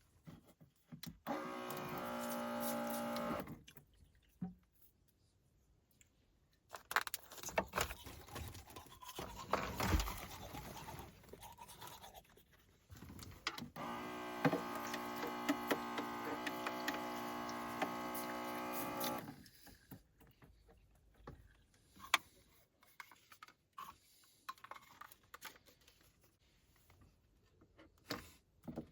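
Electric toothbrush buzzing with a steady hum, once for about two seconds and then again for about five seconds, with clicks and rustling in between.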